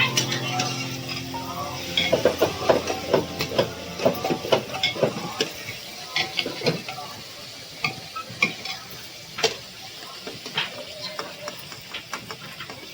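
Food sizzling in a frying pan while a utensil stirs it, knocking and scraping against the pan. The stirring is busiest from about two seconds in and thins out to occasional knocks after about seven seconds.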